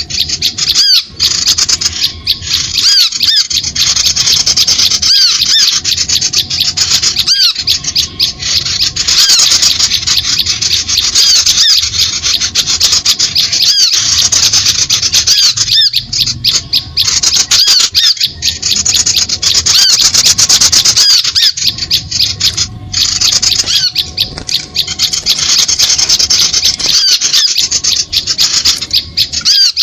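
Bird-lure recording of small birds' shrill, rapid chattering calls, packed densely and broken by short pauses every second or two.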